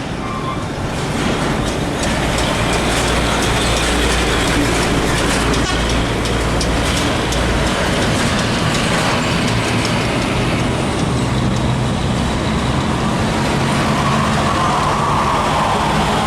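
Heavy diesel trucks driving past: continuous engine drone and tyre noise, with a deep low rumble in the first half.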